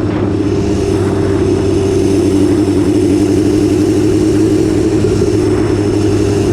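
BMW S1000RR's inline-four engine running at a steady, held speed, one unchanging drone over a rush of wind noise.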